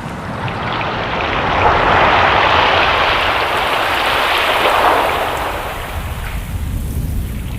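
Ocean waves: one wave swells up, washes in loudest through the middle, and draws back, over a steady low rumble of surf.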